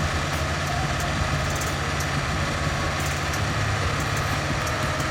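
A cone stump splitter's engine running steadily as the spinning cone crushes a stump, with scattered faint cracks of splitting wood.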